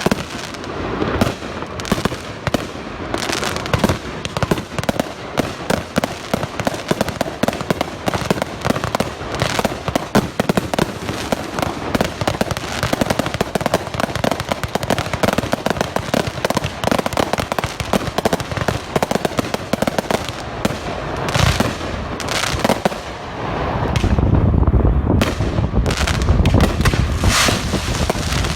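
A fireworks display firing a dense, continuous barrage of rapid crackling reports and bangs. Near the end, heavier, deeper booms join in and it grows louder.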